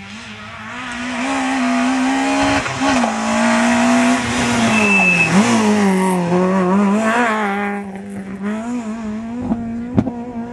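Rally car engine running hard at high revs, its note holding, then dropping sharply and climbing again several times as it shifts gear and lifts through the stage, with tyre and road noise over it. A sharp click comes near the end.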